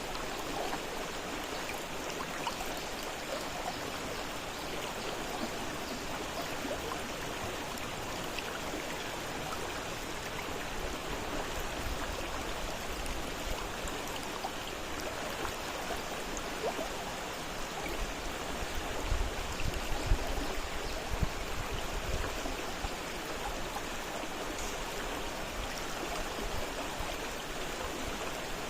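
Fast-flowing river water rushing steadily, with a few brief low thumps about two-thirds of the way through.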